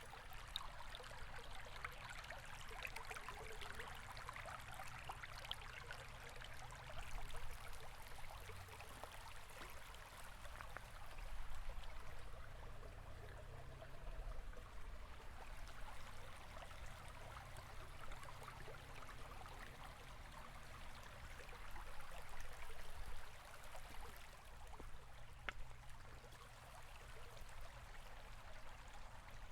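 A river or stream flowing steadily, a continuous rushing and trickling of water with a low rumble beneath and gentle swells in loudness.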